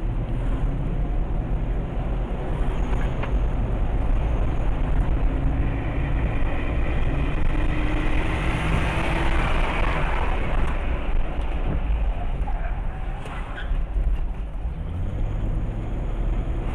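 Steady engine and road noise of a moving car, a continuous low rumble.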